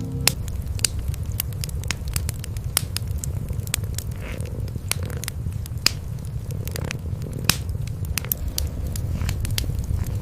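Cats purring in a steady low rumble, with a wood fire crackling over it in sharp, irregular pops.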